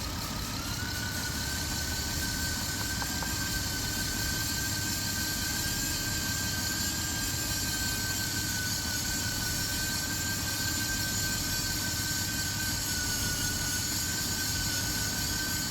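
Engine of a 2008 Dodge Grand Caravan idling steadily, with a steady high whine over it that climbs slightly in pitch about half a second in.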